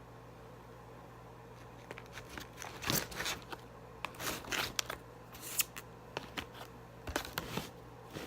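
Paper and food packaging crinkling and rustling in a string of short, uneven bursts that start about two seconds in.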